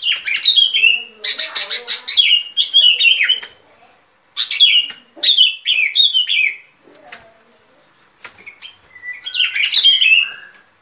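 Bulbul song: four loud phrases of quick, bubbly whistled notes, each note slurring downward, with a pause of about two seconds before the last phrase.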